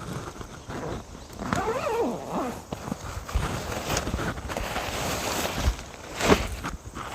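Irregular footsteps crunching on crushed-stone gravel, with a sharper crunch about six seconds in. A brief wavering voice-like sound is heard about two seconds in.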